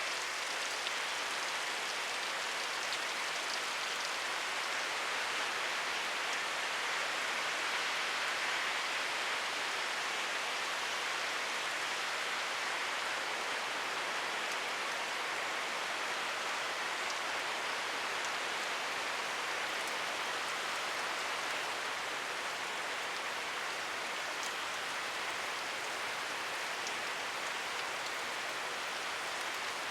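Steady rain falling, an even hiss of drops without breaks or thunder.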